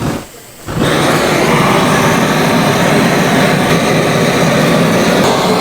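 A loud, steady rushing roar that starts suddenly a little under a second in and holds evenly.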